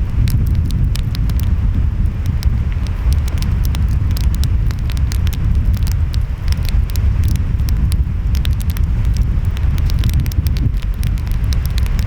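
Wood fire crackling, with many sharp pops and snaps, over a steady low rumble of waves and wind.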